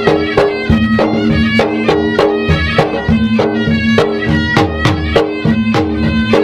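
Traditional Maros gendang ensemble: gendang drums beat a fast, even rhythm of about three strokes a second under a held, reedy wind-instrument melody.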